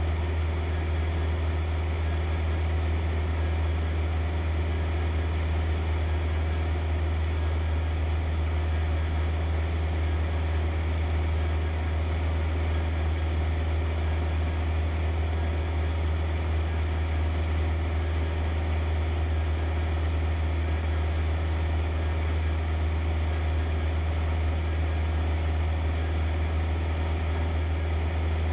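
Cessna 152's four-cylinder Lycoming engine and propeller droning steadily in flight, heard from inside the cabin.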